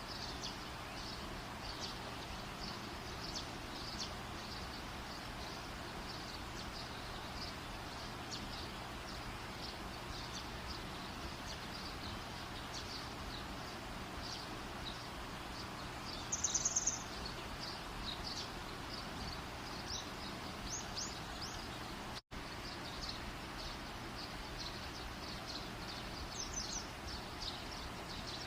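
Steady hiss of an outdoor campfire under many short, high chirps, with a louder pulsed high call about 16 seconds in. The sound cuts out for an instant a little past 22 seconds.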